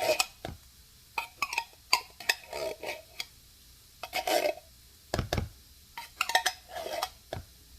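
Spoon scraping condensed cream of chicken soup out of a metal can into a bowl: a string of short scrapes and clinks, with a dull thump about five seconds in.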